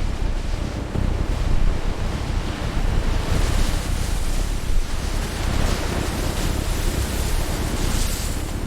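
Steady rushing, rumbling noise with a heavy low rumble, its hiss growing a little brighter from about three seconds in.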